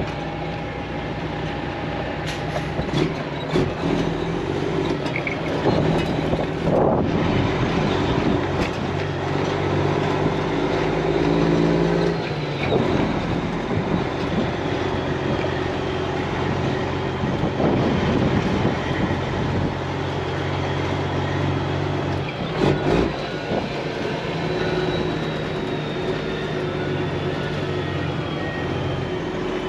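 Semi truck's diesel engine running as the truck drives slowly, with rattles and knocks over it; the engine note steps to a new pitch a few times.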